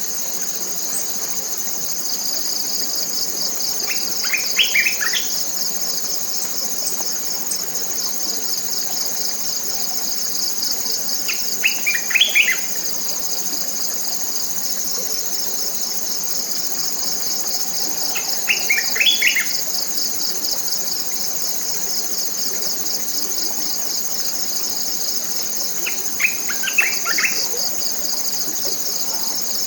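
Tropical forest insects trilling continuously in a high, rapidly pulsing chorus with a steady high tone above it, while a bird gives a short phrase of quick falling notes four times, about every seven seconds.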